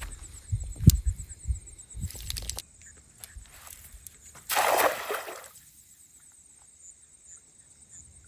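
A few low knocks and bumps, then one splash of lake water lasting about a second, about halfway through.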